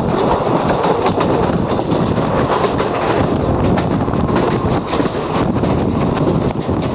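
Train running through a station at speed without stopping, its wheels clattering over the rails in a steady, loud rush of noise.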